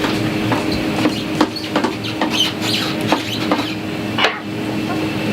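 Plastic parts of a small coffee vending machine clicking and knocking irregularly as they are unclipped and lifted out by hand, over a steady machine hum.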